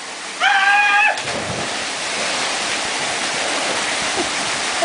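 A person lets out a high, held yell as they jump, then a splash into the plunge pool about a second in, followed by the steady rush of the waterfall.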